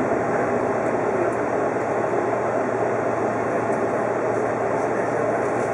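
Odakyu 50000-series VSE Romancecar running through a tunnel: a steady, even rumble of wheels on rail and rushing air, heard from inside the front of the train.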